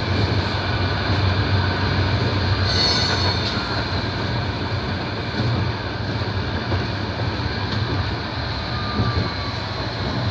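Tram running, heard from inside the car: a steady rumble of motors and wheels on the rails, with faint high whining tones above it.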